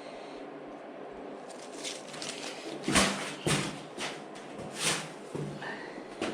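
Masking paper and tape being peeled off a freshly painted scooter side panel and crumpled, a run of sharp paper crackles and rips, loudest about three seconds in. A low steady hum sits underneath.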